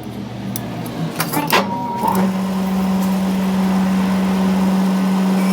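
A few sharp metallic clicks, then about two seconds in a machine motor starts and runs with a steady, even hum.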